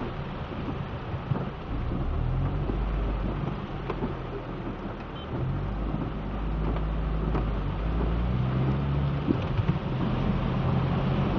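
Steady rain falling, with the low hum of motor vehicles underneath that swells twice.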